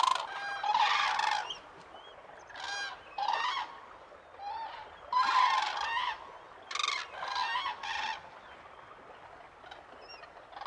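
A flock of cranes calling, several birds overlapping, in about seven separate bursts of calls with short, quieter gaps between them.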